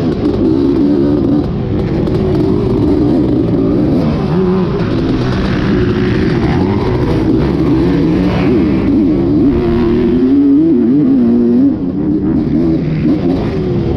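Motocross dirt bike engines revving up and down through the gears on the track, their pitch rising and falling continuously.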